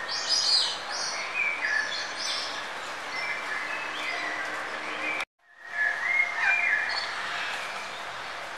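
Birds chirping in short, quick calls over a steady background hiss, cut off to silence for a moment a little past halfway before fading back in.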